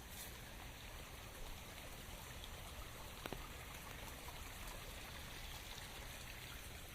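Steady rain falling as an even hiss, with a couple of sharper drop hits standing out, one near the start and one about halfway through.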